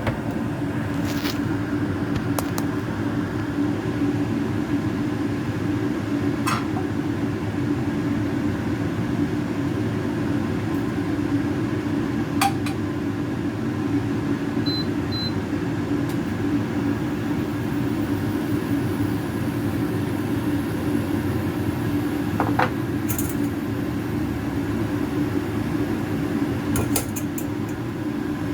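A steady low mechanical hum runs throughout, with a few short, light clicks or taps scattered through it.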